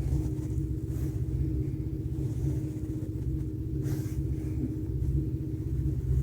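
Steady low rumbling hum, with brief faint swishes about a second in and again about four seconds in.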